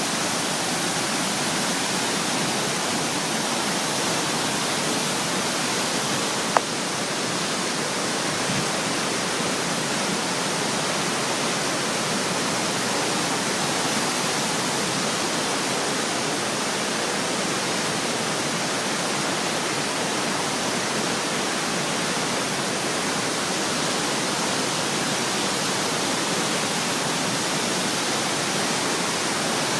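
Waterfall rushing: a steady, even roar of falling water. A single sharp click comes about six and a half seconds in.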